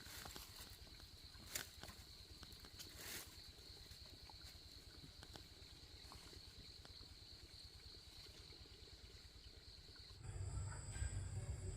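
Faint, steady insect chirring on one high note, with a few soft clicks. Near the end it changes abruptly to a louder low hum with different high insect notes.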